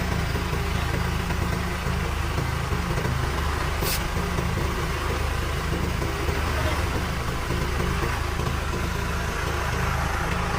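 An engine idling steadily, with a brief high hiss about four seconds in.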